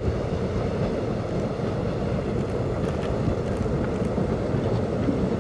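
Steady low rumble of an electric-hauled passenger train running along the track.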